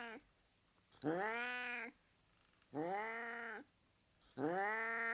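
Cat meowing over and over: long, drawn-out meows about every second and a half, each rising at the start and then holding. The tail of one meow is followed by three more, the last running on past the end.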